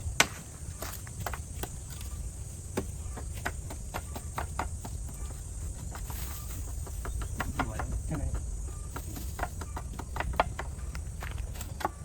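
Irregular light clicks and knocks of hand work, over a steady high drone of insects.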